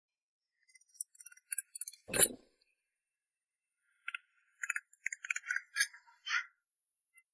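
Small metal pieces clinking and tapping in quick, light clicks, with one louder knock about two seconds in and a second run of clatters later on.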